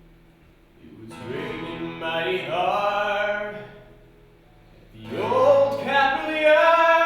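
Unaccompanied singing: two sung phrases with a short pause between them, the first starting about a second in and the second about five seconds in.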